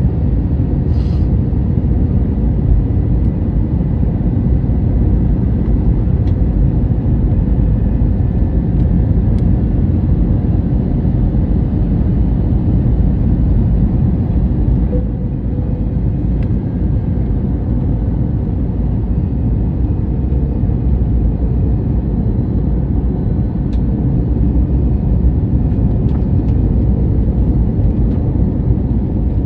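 Steady rumble of engine and airflow noise inside the cabin of an Airbus A321neo, even throughout, with a slight drop in level about halfway through.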